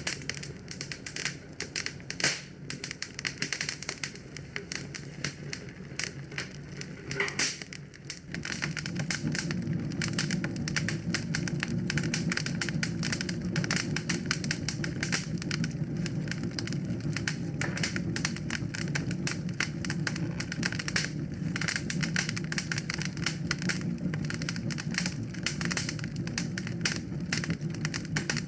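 Fireplace fire crackling and popping with fast, irregular snaps. About eight seconds in, a steady low rushing of flames comes in under the crackle and stays.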